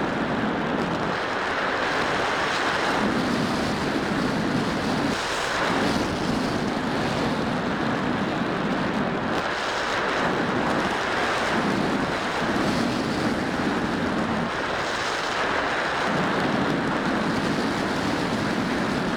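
Wind buffeting the microphone in gusts, a steady rushing roar that swells and eases every second or two.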